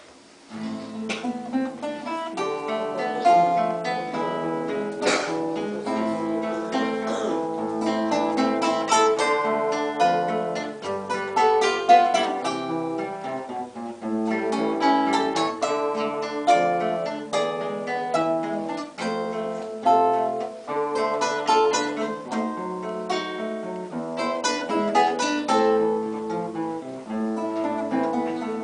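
Acoustic guitar playing an instrumental introduction to a song in a run of plucked notes.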